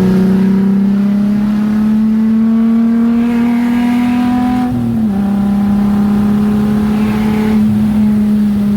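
A car engine running under way, its note climbing slowly for about five seconds, then dropping suddenly and holding steady.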